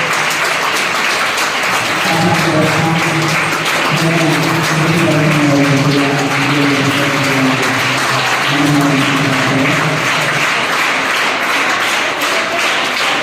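Music with a melody line over a crowd applauding steadily; the music fades out a little before ten seconds in while the applause carries on.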